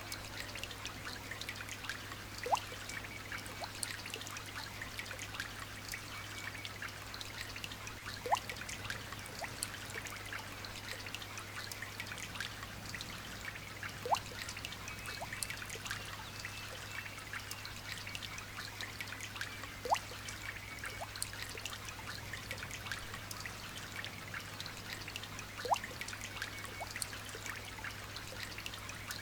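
Light rain falling, a steady patter of small drops with trickling water, and a larger drip plopping into water with a short rising pitch about every six seconds.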